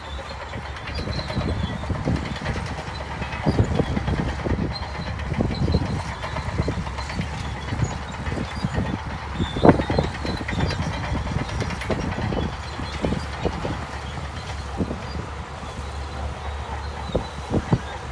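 Shantui DH17C2 bulldozer working: a steady low diesel engine hum with irregular clanks and knocks throughout, the loudest about ten seconds in.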